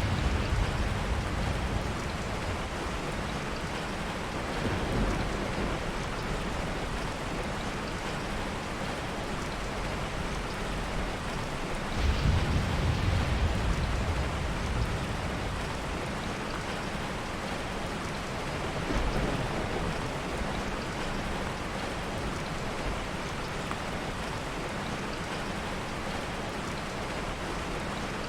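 Heavy rain falling steadily, with soft thunder rumbling underneath: small rolls near the start, about five seconds in and about nineteen seconds in, and a louder roll that starts suddenly about twelve seconds in.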